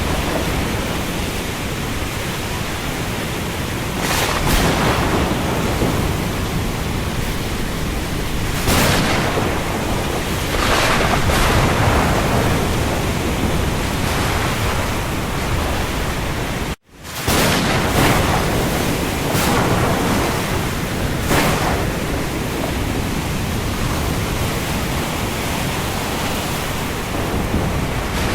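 Steady heavy rain at sea, a dense hiss that swells every few seconds. It cuts out completely for an instant about seventeen seconds in, then resumes.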